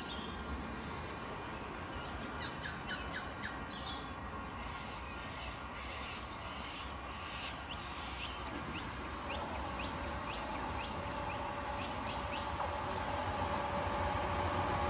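Birds chirping in short quick runs while an approaching diesel-hauled passenger train, The Overland, gets steadily louder, its hum building through the second half.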